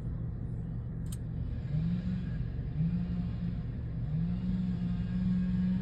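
Chainsaw revving up three times and holding at high revs while cutting, over a steady low rumble, with a short sharp click about a second in.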